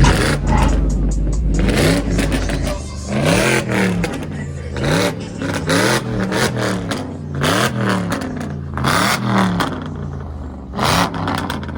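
A vehicle's engine revved over and over, each rev rising and falling in pitch, about one a second; loud.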